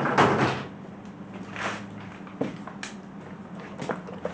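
Handling noise from parts being worked on by hand: a loud rustling scrape at the start, another softer one about a second and a half in, then a couple of light clicks, over a steady low hum.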